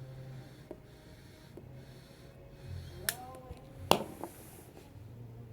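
Soft puffing and breathing of a man drawing on a tobacco pipe, with two sharp clicks about three and four seconds in.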